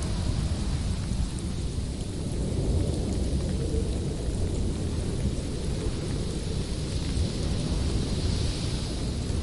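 Strong winter wind, a steady low rumbling gust noise with a higher hiss that swells about eight seconds in and falls away near the end.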